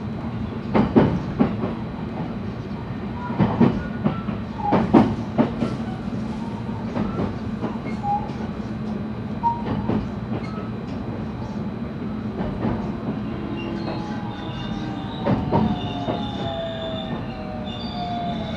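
Running noise inside a JR West 223 series electric train's motor car: a steady rumble with sharp wheel clacks over rail joints. About 14 seconds in, the traction inverter whine comes up as several tones that slowly fall in pitch.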